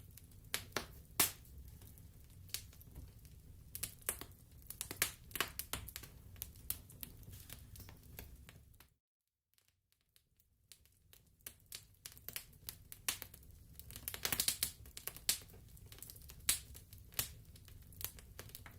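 Wood fire crackling in a fireplace: irregular sharp pops and snaps over a low rumble of burning. The sound cuts out for about a second and a half midway, then resumes.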